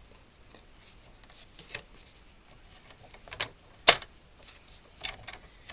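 Light, scattered clicks and taps of cardstock being handled and set in a paper trimmer, with a sharper click just before four seconds in.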